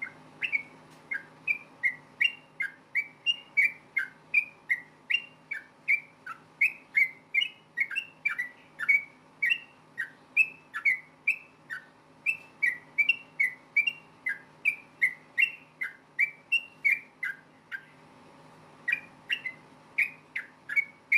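Yellow-vented bulbul (trucukan) calling in a long rapid run of short, sharp whistled notes, about two a second, with a brief pause near the end.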